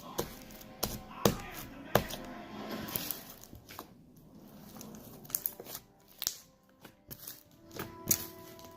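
Irregular clicks and taps of slime-making materials being handled, with some crinkling between them.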